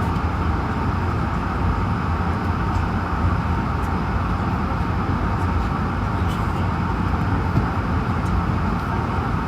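Steady cabin noise inside an Airbus A220-100 during pushback: a constant rush of air with a low rumble underneath and a faint steady whine.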